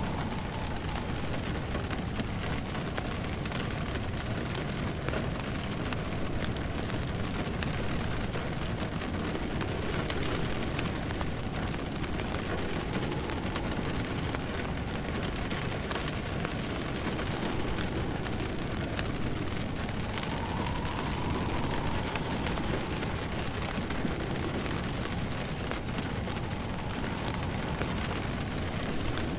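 Steady rain pattering on a surface, mixed with a wood fire crackling in a fireplace. A wind howl swells and fades in slow waves through it.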